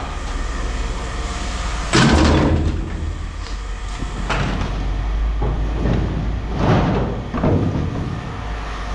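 Scrap metal being unloaded and dropped: about five sudden clanks and thuds, the loudest about two seconds in, over a steady low engine hum.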